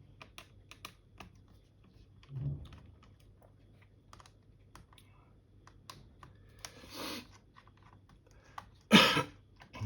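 Small clicks and taps of a screwdriver and fingers working the screws and parts of a laptop keyboard. Near the end, one loud, sudden cough-like outburst from the person.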